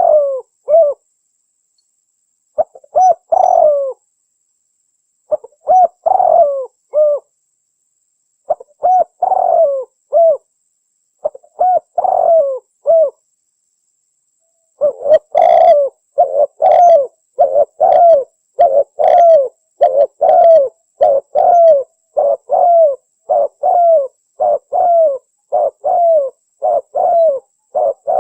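Spotted dove cooing: short groups of two or three coos with pauses between them, then from about halfway an unbroken run of repeated coos. It is a recorded call played as a lure for trapping doves.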